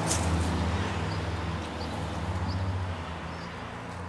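A low, steady engine hum that fades about three seconds in, with a few faint high chirps over it.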